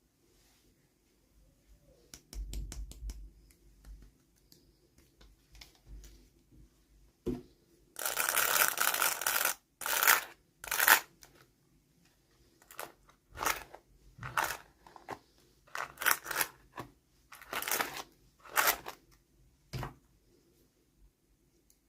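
Toy packaging being opened and handled: one long tearing or rustling sound about eight seconds in, followed by a run of short rustles and scrapes.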